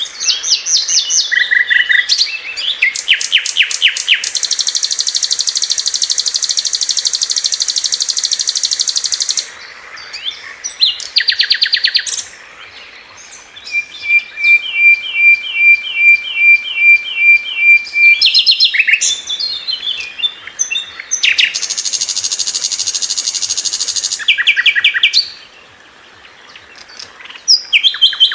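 Sikatan londo, a flycatcher, singing a loud, varied song: quick chattering phrases, long dense trills twice, and midway a run of evenly repeated notes over a held whistle.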